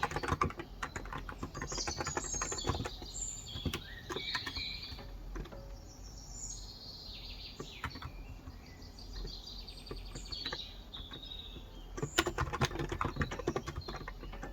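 Typing on a Cox Endeavor electrostatic capacitive (topre-style) keyboard with 35 g switches, in bursts of keystrokes at the start and again about twelve seconds in. Birds chirp throughout.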